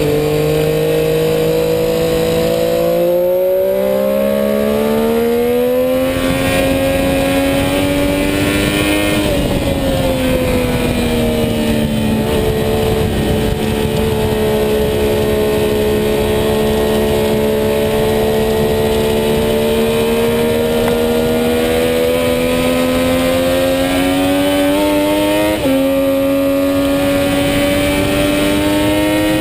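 Sport motorcycle engine at racing speed on a track. The revs climb for several seconds, fall away, hold steady, then climb again. The note breaks briefly twice, about three seconds in and near the end, over a steady rush of wind.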